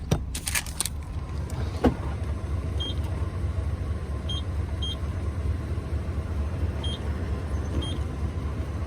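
Truck engine idling with a steady low rumble, a few clicks in the first second, and about five short electronic beeps from the car wash pay terminal's keypad as the wash is bought.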